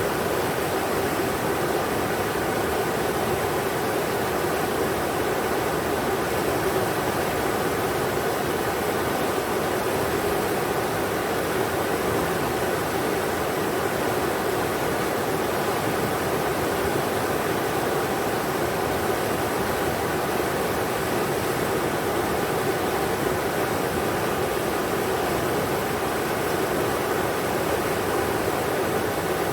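River water rushing over rocks in a steady, unbroken roar of noise, strongest in the low-middle range.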